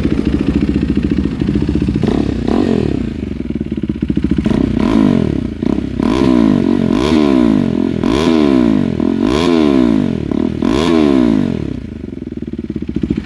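KTM RC 390's single-cylinder engine, fitted with a cat-delete IXIL exhaust, idling and then revved up and down about six times before settling back to idle near the end.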